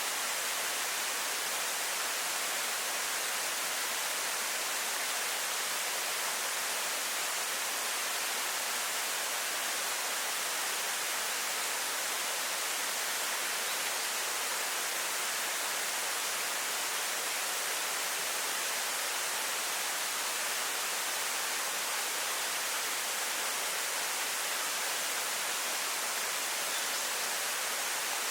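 Waterfall falling steadily, a continuous even rush of water with a hiss-like high end and nothing breaking through it.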